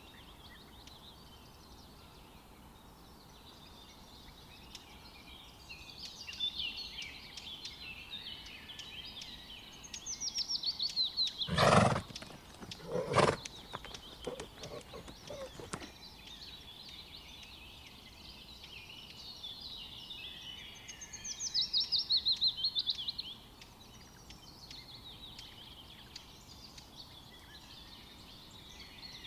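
Songbirds singing outdoors, with repeated fast descending trills, louder a little before the middle and again past two-thirds of the way. Near the middle come two loud, short noisy sounds a second and a half apart.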